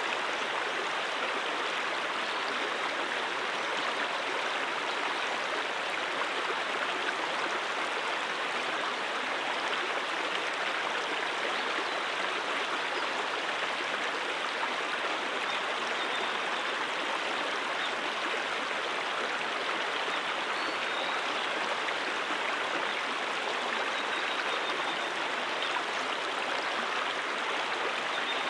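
Stream water running and splashing over rocks, a steady rushing with no change throughout.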